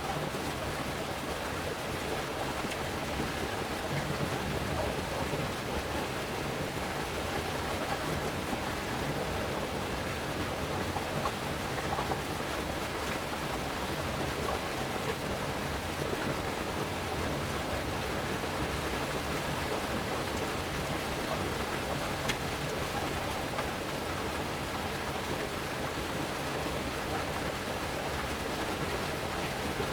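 Steady hiss of water, rain or a flowing stream, unchanging throughout, with a few faint scattered ticks.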